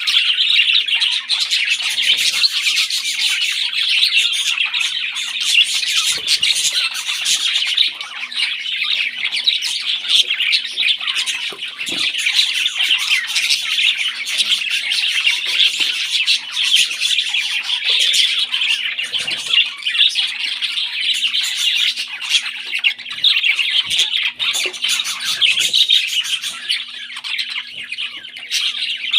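Parrot chicks begging while being fed: a dense, unbroken stream of rapid high-pitched chirps and squawks.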